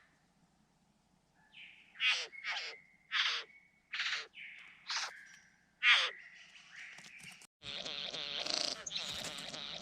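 Birds calling: a series of about six loud, harsh downward-sweeping calls roughly a second apart over a held whistle. After a brief dropout near the end, a denser, busier chatter of calls follows.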